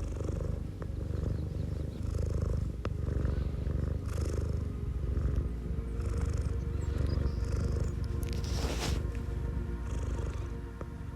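Domestic cat purring steadily close up, with soft breathy hisses every second or two in time with its breathing and a louder hiss near nine seconds in. Soft background music sits underneath.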